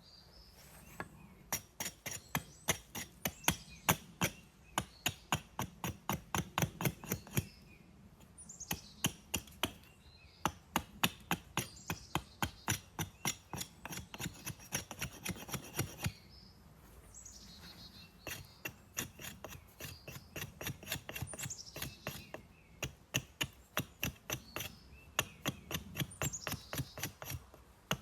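Rhythmic strokes of a hand tool working wood, about three or four a second, in runs of several seconds with short pauses between. Birds chirp now and then.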